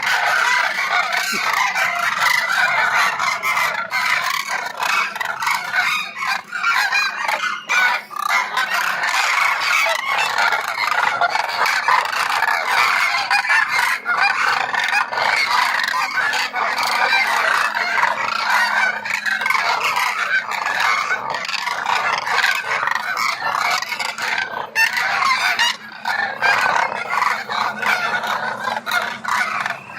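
A large flock of migratory birds calling, with many calls overlapping continuously.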